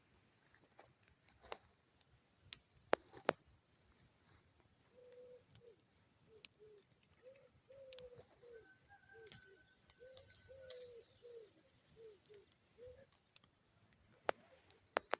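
A bird calling in a long run of short, low cooing notes through the middle. A few sharp snaps come near the start and again near the end.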